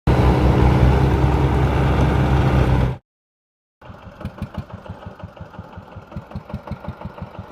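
Heavy diesel engine running loud and steady, cut off abruptly about three seconds in. After a short gap a diesel engine chugs at a slow idle with an even beat of about seven pulses a second.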